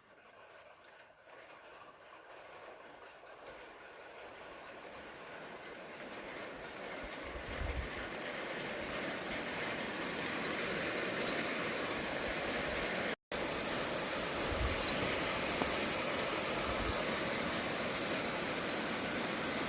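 Rain setting in during a thunderstorm: a hiss that builds over about ten seconds into a steady downpour, with a few brief low rumbles.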